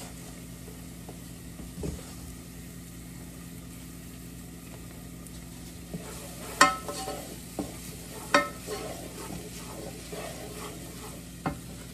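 Grated onion and dried spices sizzling in olive oil in a pot while a wooden spoon stirs them. From about halfway, the spoon knocks against the pot, with two louder clanks that ring briefly, then lighter knocks.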